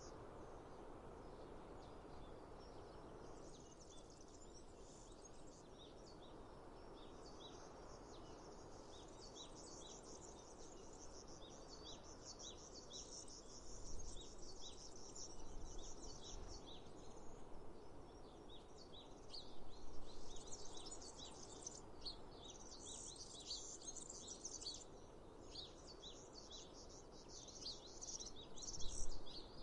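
Birds chirping with many short, quick notes that grow busier about a third of the way in, over a steady background hiss of outdoor ambience. A few low bumps stand out near the middle and near the end.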